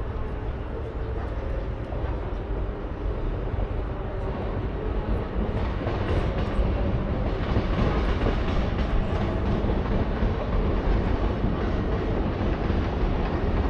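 A train running past with a steady rumble that grows louder about six seconds in.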